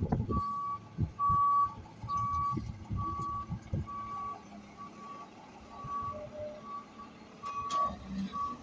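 Garbage truck's reversing alarm beeping steadily at a little over one beep a second, with several low clunks from the truck in the first few seconds.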